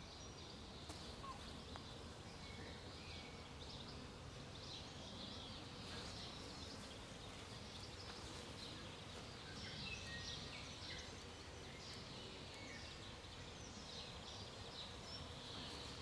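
Honeybees buzzing softly around an open hive, with scattered small bird chirps.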